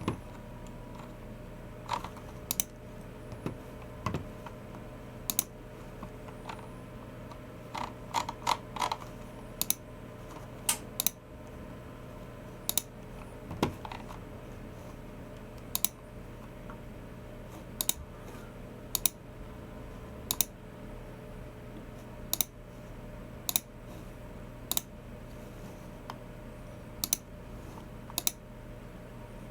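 Logicool MX Keys Mini keyboard and Logicool G304 mouse in use: sparse, irregular key taps and clicks, with a quick run of several taps about eight seconds in, then single clicks spaced about a second apart.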